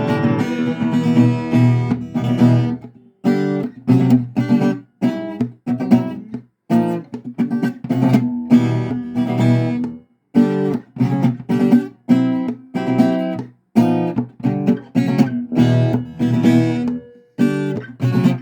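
Acoustic guitar strumming chords: a ringing strum for the first few seconds, then short, choppy chord strokes, each damped quickly, with brief silences between them.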